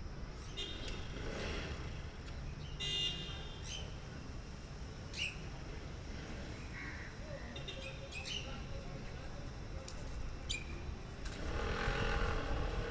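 Scattered short bird chirps, about half a dozen, over a steady low background rumble.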